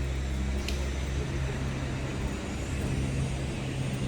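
Motor vehicle engine hum from road traffic: a steady low drone over a wash of traffic noise, with a brief faint tick less than a second in.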